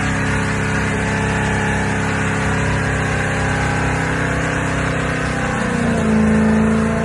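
Pontiac Trans Am's V8 engine running at steady high revs through a smoky burnout. The revs climb briefly near the end and then hold.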